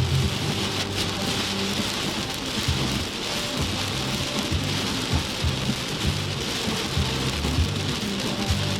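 Heavy rain pouring steadily in a rainstorm, with an uneven low rumble beneath it.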